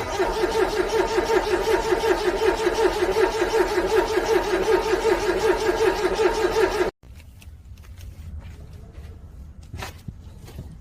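Starter motor cranking a cold car engine in a rhythmic pulsing, about five pulses a second, for about seven seconds without the engine catching, then cutting off suddenly. A single faint click follows near the end.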